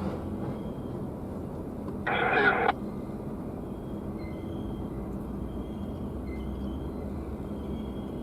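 Diesel locomotive engine running steadily during a switching move, with a deeper rumble building about halfway through. About two seconds in, a short clipped burst from a scanner radio cuts in and off abruptly.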